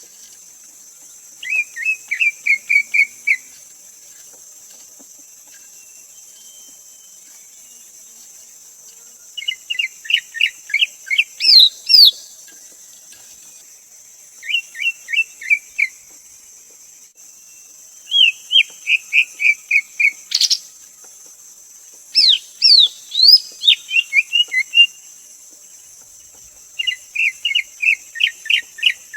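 Greater green leafbird singing: about six phrases of quick, repeated whistled notes, each a second or two long and separated by pauses of a few seconds, over a steady high hiss.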